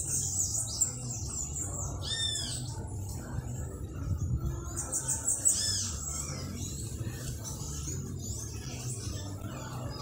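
Small birds chirping and twittering in quick high notes, with a few louder arched chirps about two and five and a half seconds in, over a low steady background rumble.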